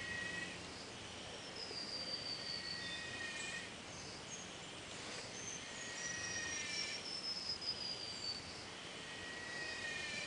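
Outdoor ambience with wild animals calling: long, thin, high whistling calls that repeat every few seconds, some gliding slightly downward and overlapping, over a steady background hiss.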